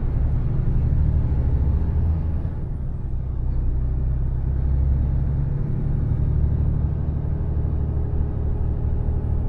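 Mercedes Actros truck's diesel engine running under way, a steady low drone whose pitch shifts slightly a few times.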